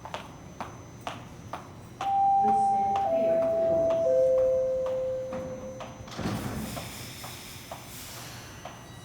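Toronto subway train's door chime: three steady notes stepping down in pitch, each held about a second, over a faint ticking about twice a second. About six seconds in comes a hiss as the doors close before departure.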